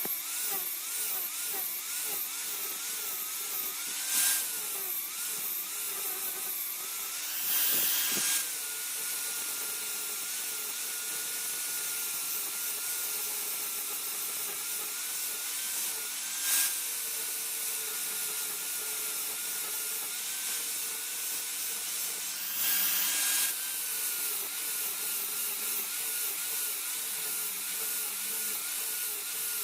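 An electric grinder running steadily, its whine wavering in pitch as steel is pressed against it, with four brief louder bursts of harsh grinding.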